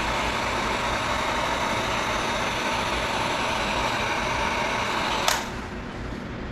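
Heat gun blowing steadily, warming leftover badge adhesive on a motorcycle fuel tank to soften it; it switches off with a click a little over five seconds in.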